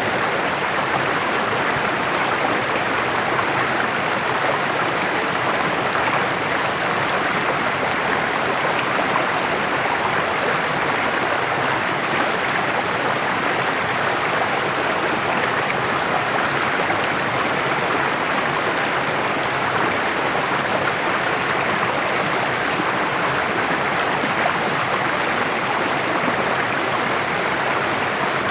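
Small rocky mountain stream babbling and splashing steadily over stones.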